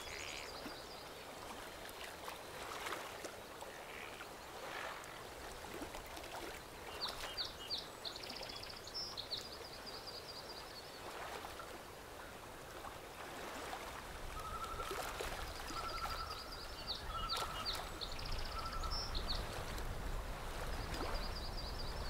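Faint steady outdoor background hiss with small birds chirping: quick runs of short high chirps, and a few separate lower whistled notes in a row about two-thirds of the way through.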